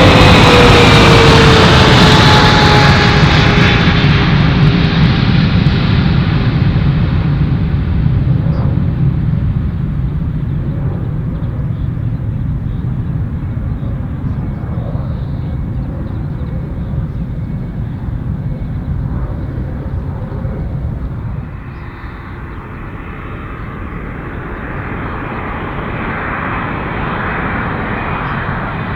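Boeing 777-300ER's GE90 turbofan engines passing close by on landing approach. The engine whine falls in pitch as the jet goes past, and the sound fades away. About 22 seconds in, a second airliner's jet engines, a Boeing 787-9 on approach, become audible and grow steadily louder.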